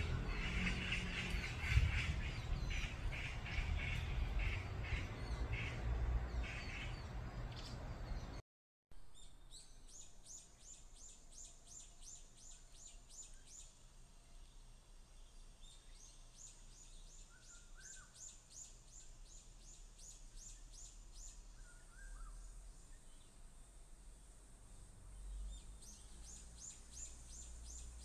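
Wild forest birds singing. First comes a run of rapid chirps over a low rumble. After a brief dropout about eight seconds in, it goes quieter, with several bursts of fast, high, repeated trilling notes and a few faint lower calls.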